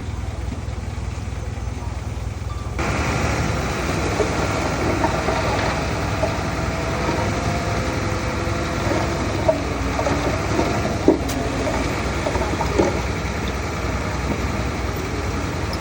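Diesel engine of heavy earthmoving machinery running steadily, with a few sharp knocks in the middle.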